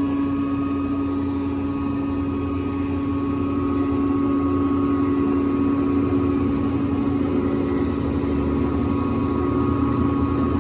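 Tannewitz 36-inch vertical bandsaw running steadily under power, its motor and blade wheels giving a continuous hum with higher whining tones, getting slightly louder about four seconds in.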